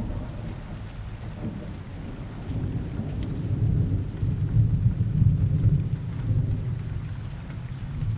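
Steady rain with a low roll of thunder that builds a few seconds in, peaks in the middle and fades toward the end.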